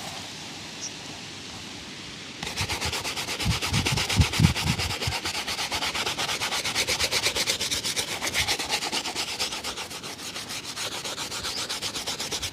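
A shoe being buffed in rapid, even back-and-forth strokes during a shoe shine, several strokes a second. The strokes begin about two seconds in, with a few dull knocks soon after.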